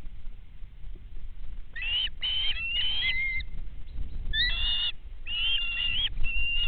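Birds calling: a run of short, high calls, some gliding up or down in pitch, starting about two seconds in, over a steady low rumble.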